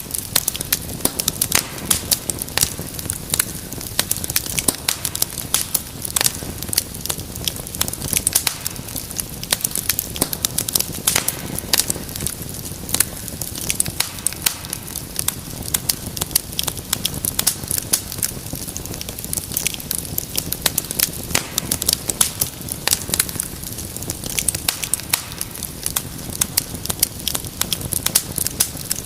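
Wood fire crackling and popping steadily, many sharp irregular snaps over a low steady rumble of the flames.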